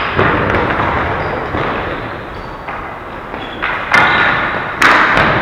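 Sharp knocks of ball hockey play, a ball and sticks striking the boards, echoing in a large arena: one near the start, one about four seconds in and another just before the end.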